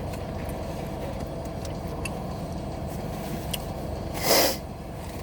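Steady low rumble and hum inside a car cabin, with a few faint clicks and one short, loud rush of noise about four seconds in.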